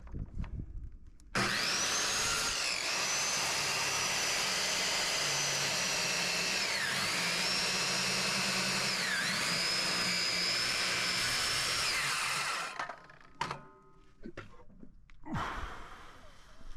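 Electric power tool running for about eleven seconds with a high whine, its pitch dipping three times under load and recovering, then stopping; a few short knocks follow.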